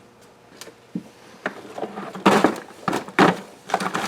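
Handling noise from parts and tools being moved: a few light clicks, then several short, loud rustling, scraping bursts.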